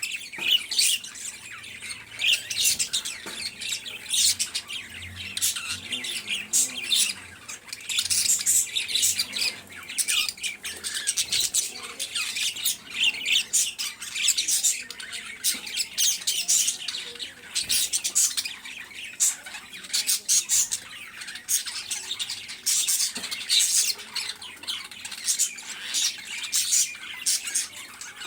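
Many small birds chirping and squawking together in a continuous, busy chatter, with calls overlapping one another.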